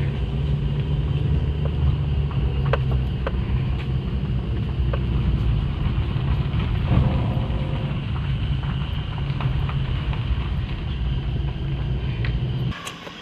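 Vehicle driving along a road: a steady low engine and road rumble with a few light clicks and knocks, cutting off abruptly just before the end.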